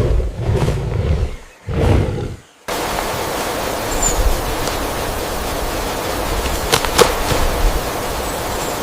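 Low rumbling bursts that cut off sharply under three seconds in. They give way to a steady rush of flowing water, with a couple of sharp clicks about seven seconds in and a few faint high chirps.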